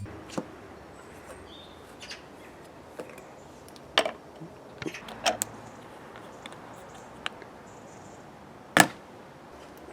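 A few separate short clicks and knocks over a quiet background, the loudest near the end.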